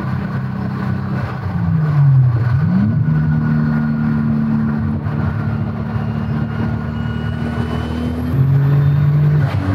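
Turbocharged VR6 engine of a VW Golf 3, heard from inside the cabin, pulling hard under full throttle on high boost. The revs dip and climb back about two seconds in, then rise steadily, and it gets louder near the end.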